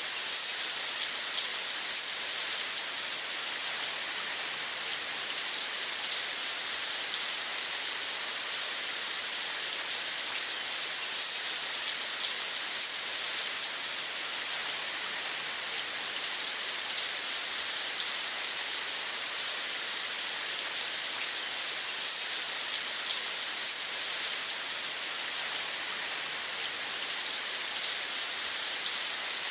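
Steady rain: an even, continuous hiss that does not change.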